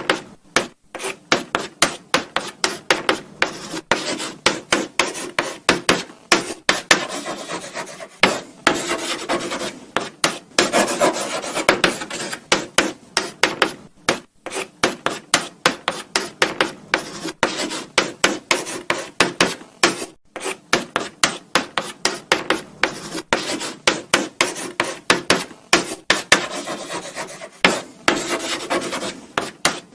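Chalk writing on a blackboard: quick, scratchy strokes in rapid runs, broken by short pauses.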